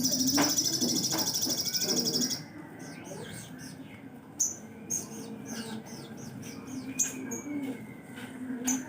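Sogon bird singing: a fast, high rattle for the first two and a half seconds, then scattered short high chirps and whistles.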